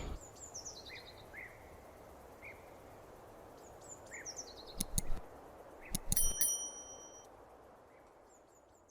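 Faint bird chirps in short falling runs, with a few sharp knocks about five and six seconds in. Just after the knocks comes a bell-like metallic ring that lasts about a second.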